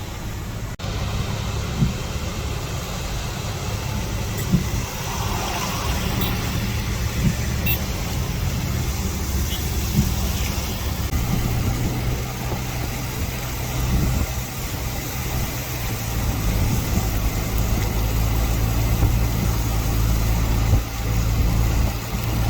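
A vehicle engine idling with a steady low rumble, a few light clicks over it.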